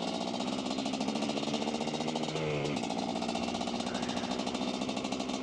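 Dirtbike engine running steadily under way, a fast even putter, with a brief change in engine pitch about two and a half seconds in.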